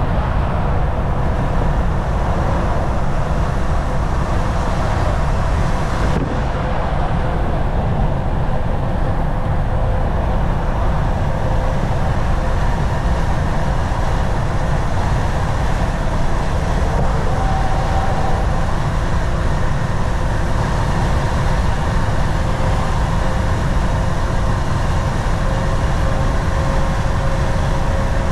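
Volvo VNL 760 semi truck cruising at highway speed: a steady drone of engine and tyre-on-road noise with a faint steady whine.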